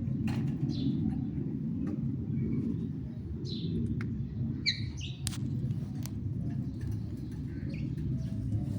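Parrots giving short, falling chirps, a handful spread through, with a couple of sharp clicks about five and six seconds in, over a steady low rumble.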